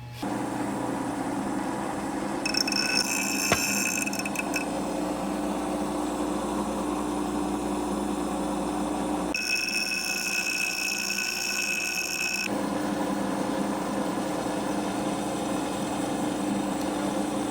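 A machine-shop machine switches on and runs steadily. Twice, for two to three seconds each, a high-pitched squeal rises over it as the tool meets the steel, with one sharp click during the first squeal.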